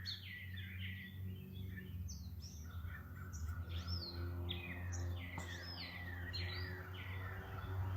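Songbirds singing: a run of quick, clear notes that fall in pitch, repeated several times a second, over a steady low hum.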